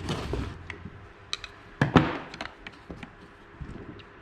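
Hand tools clicking and knocking against a Stihl MS250 chainsaw while its anti-vibration mount plugs are pried out, with a scrape at the start and one louder knock about two seconds in.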